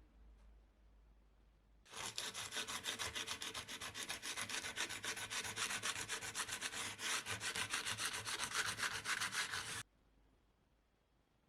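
Sandpaper rubbed by hand in fast back-and-forth strokes, about five or six a second, over the gessoed wooden frame of a convex mirror, starting about two seconds in and stopping abruptly near the end.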